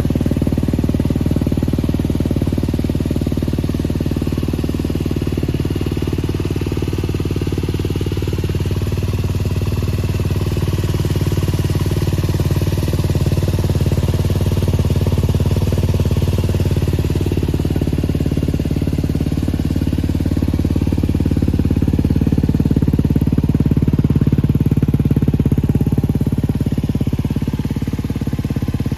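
Yamaha WR250X's 250 cc single-cylinder four-stroke engine idling steadily through an aftermarket SP Tadao P-BOX exhaust with an FMF silencer.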